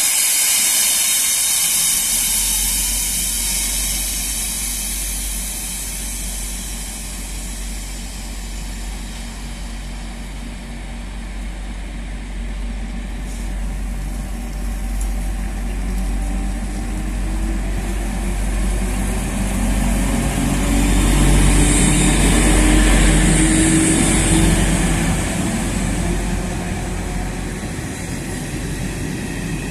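SNCB class 21 electric locomotive hauling a rake of M4 passenger coaches past along the platform. It opens with high squealing tones, and later a motor whine rises steadily in pitch while a loud hiss of passing wheels and rails swells, over a constant low rumble.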